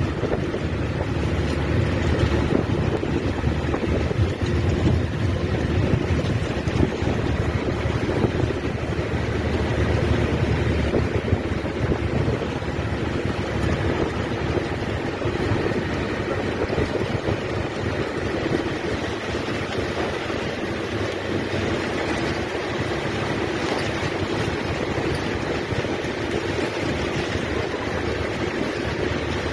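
Steady motor drone with wind rushing over the microphone.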